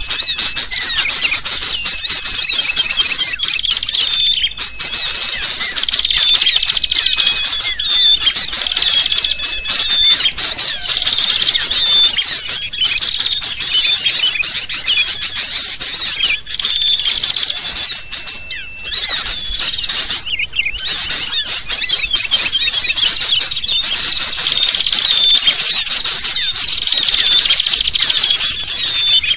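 Bird-lure track of sooty-headed bulbuls calling noisily, mixed with a dense chorus of small birds' chirps and twitters. It runs without a break, with a short call falling in pitch repeating every couple of seconds over the chatter.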